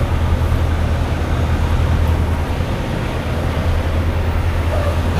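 Semi-truck's diesel engine droning steadily with road noise, heard from inside the cab while driving: a constant low hum under an even rush.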